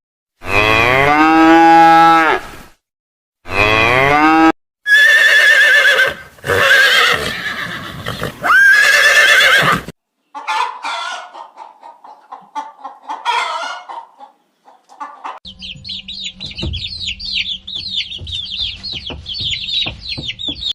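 A succession of different animal calls, one clip after another, among them chicken calls; the loudest calls come in the first half, and near the end there is a run of rapid high chirps.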